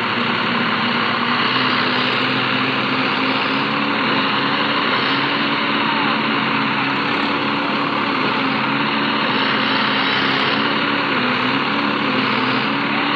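Tractor diesel engine running steadily under throttle, its engine note shifting slightly in pitch now and then.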